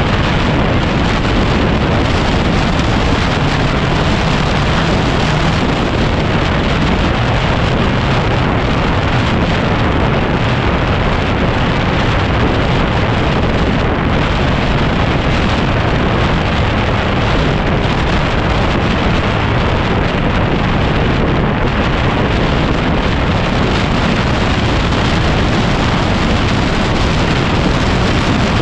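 Heavy, steady wind noise buffeting the microphone on a moving motorcycle, a dense roar that masks the 2010 Yamaha WR250R's single-cylinder engine running underneath.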